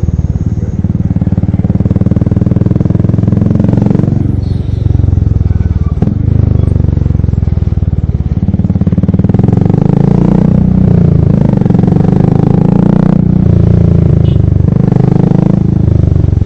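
Royal Enfield Classic single-cylinder motorcycle running loud through its exhaust, with a dense low thumping beat; the engine speed rises and falls several times, most in the second half.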